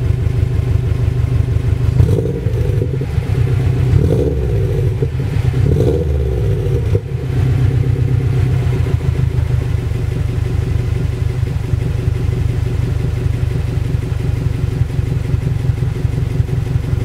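Exhaust of a 2006 Subaru STI's turbocharged 2.5-litre flat-four, running through a catless Invidia downpipe and TurboXS axle-back, idling with a pulsing note. The throttle is blipped three times a few seconds in before it settles back to a steady idle.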